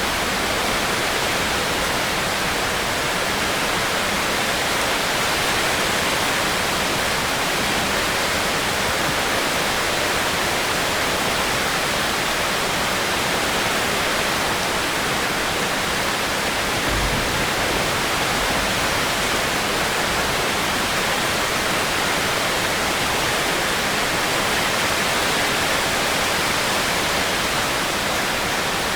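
Steady heavy rain, a dense even hiss with no distinct drops or thunder.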